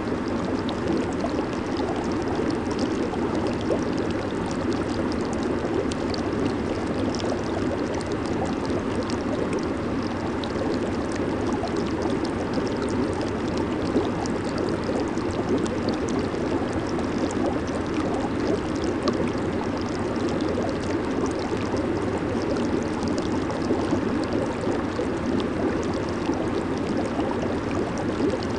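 Jacuzzi water bubbling and churning steadily, a dense, even rush of water with fine bubble pops over it.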